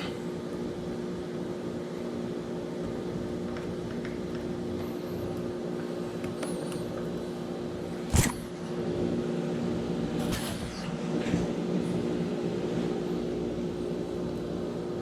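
Small metal parts of a spinning reel clicking as a spring is pushed into place, with one sharp click about halfway through and a few fainter ones after it, over a steady background hum.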